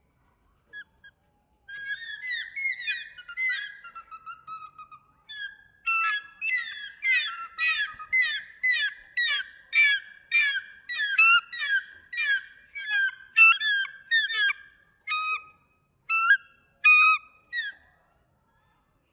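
A bird calling: a run of varied chattering notes, then a steady series of sharp falling calls about two a second that thins out and stops near the end.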